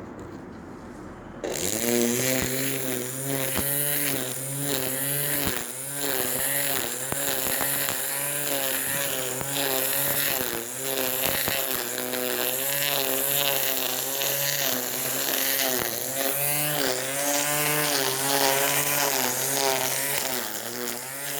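Small petrol engine of grass-cutting equipment running, its pitch wavering up and down as it works under load. It comes in abruptly about a second and a half in.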